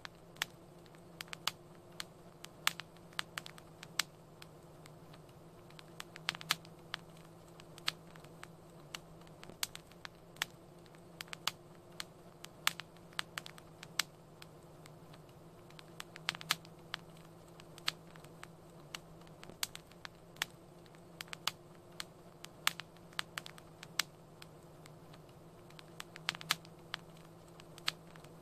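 Wood fire crackling in a fireplace: irregular sharp pops and snaps, a few a second, over a steady low hum.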